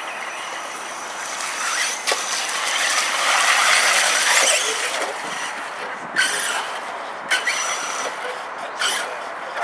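Radio-controlled mud trucks' electric motors whining and their wheels churning, swelling about three to five seconds in, with a few short sharp bursts of throttle later on.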